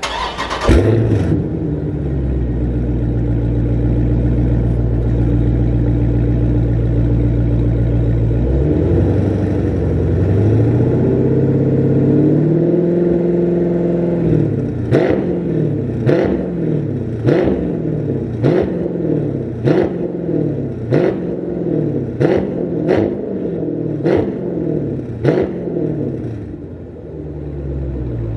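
Dodge Challenger Scat Pack's 6.4-litre V8 on a full straight-through exhaust (mid mufflers deleted, crossover pipe kept) starting with a flare and settling into a steady idle. It then rises in revs briefly and gives about ten quick throttle blips a little over a second apart before dropping back to idle.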